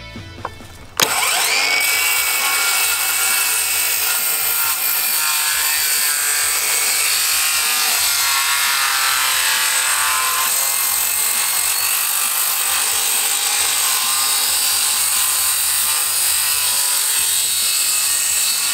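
A power saw cutting, starting abruptly about a second in and running steadily under load, with a high, slightly wavering whine over the noise of the cut.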